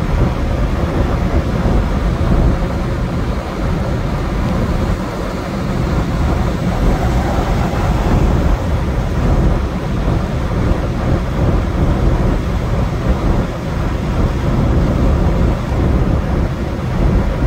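Steady low rumble of a truck running, with no distinct events.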